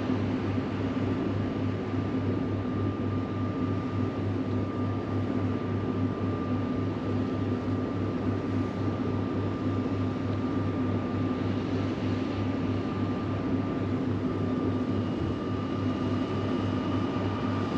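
Cruise ship's machinery giving a steady low mechanical hum with a faint steady whine above it, as the ship manoeuvres to dock.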